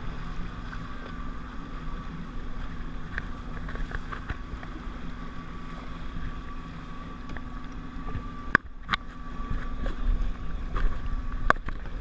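Jet ski engine idling steadily, with wind rumbling on the microphone. A few sharp knocks come about two-thirds of the way through.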